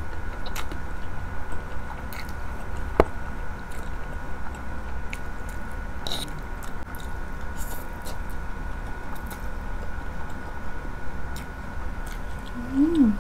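Close-miked chewing of palabok rice noodles, with many small wet mouth clicks. A sharp click comes about three seconds in, and a short hummed "mm" near the end.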